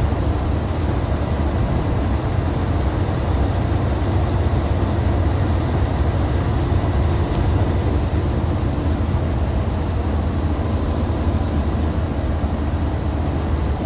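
Hyundai D6CC Powertec 380 inline-six diesel of a 2014 Hyundai Universe Comfort coach running steadily, with a short high hiss about eleven seconds in.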